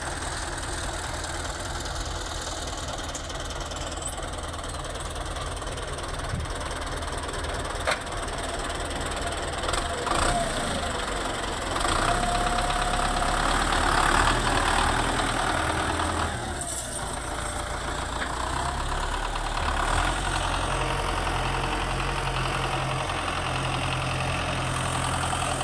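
Belarus 510 tractor's diesel engine running steadily, growing louder for a few seconds midway.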